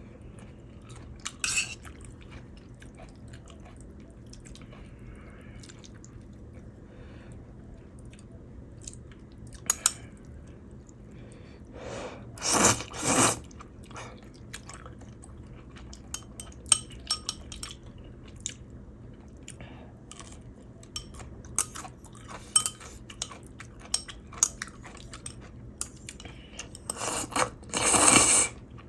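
A person eating ramen: chewing, with scattered light clicks of utensils against the bowl and pot. Two louder noisy sounds about a second long come near the middle and near the end.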